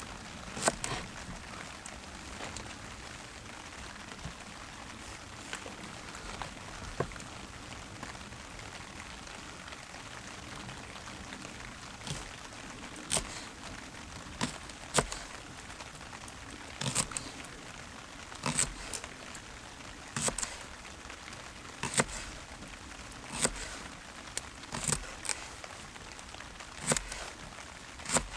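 Steady rain with large drops landing at irregular intervals, sharp single plops that come every second or two in the second half.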